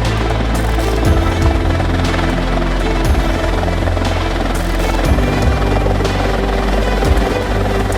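Airbus EC120 helicopter running, a steady low hum, with background music that has a beat about once a second.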